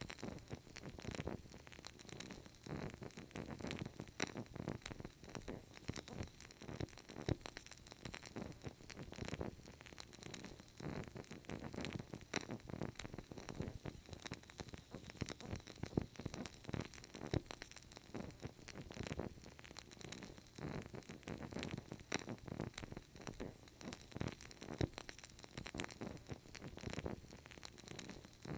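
Burning candle crackling steadily: a dense, irregular run of small pops and ticks over a soft hiss.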